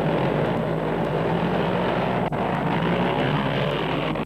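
Motocross motorcycle engines running in a steady drone, with a brief break about halfway through.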